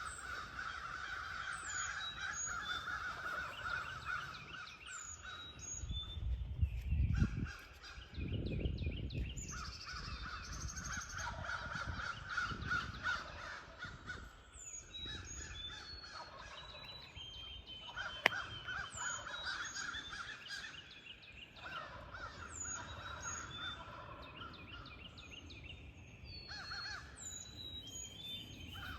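Wild birds calling in woods: a dense, chattering band of calls with many short, hooked songbird chirps above it. Gusts of wind hit the microphone about six to ten seconds in, and there is a single sharp click about two-thirds of the way through.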